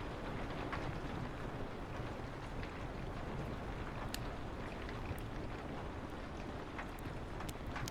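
Steady hiss of rain and soft wind with a low rumble, with the sharp, scattered pops of a crackling wood fire, roughly one a second at irregular intervals.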